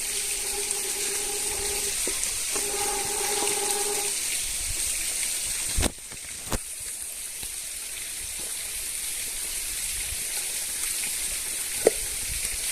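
Water flowing in a forest stream, a steady rushing hiss with a constant high-pitched whine over it. Two long low steady tones, each about a second and a half, sound in the first four seconds, and there are sharp clicks near 6 and 12 seconds.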